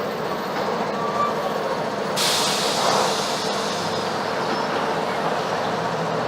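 Mercedes-Benz OF-1721 BlueTec 5 city bus on the move, heard from inside: a steady diesel engine and road noise. A high hiss comes in abruptly about two seconds in and holds.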